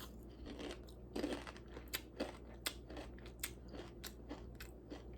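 A person biting into and chewing Takis rolled tortilla chips: about a dozen crisp crunches at an uneven pace.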